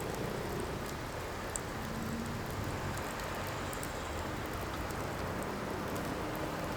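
Firewood burning with a steady hiss and scattered small crackles and pops.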